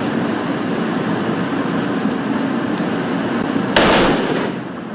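Steady wind and ship noise, then near the end a short, loud burst of fire from a ship's deck-mounted machine gun, echoing briefly out over the water.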